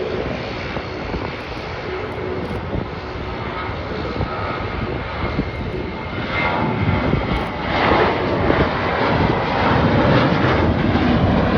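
Jet engines of a Jeju Air Boeing 737 at takeoff power during the takeoff, a steady jet noise that grows louder over the second half.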